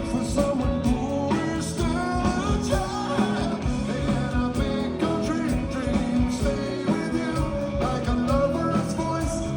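Live rock band playing a song, a singer's voice over a steady drum beat.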